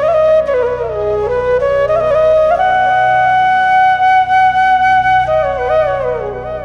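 Background music: a flute-like melody playing slowly with sliding notes, holding one long note through the middle, over a steady low drone. The melody slides downward and fades near the end.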